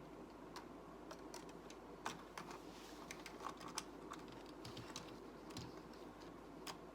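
Faint, irregular clicks and taps of plastic Lego pieces being handled and pressed together, over a steady low background hiss.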